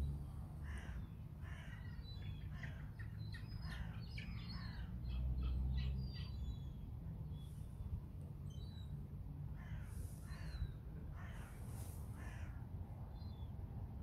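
Birds calling over and over in short calls, with a few thin high chirps among them, over a low rumble of wind on the microphone that swells about five seconds in.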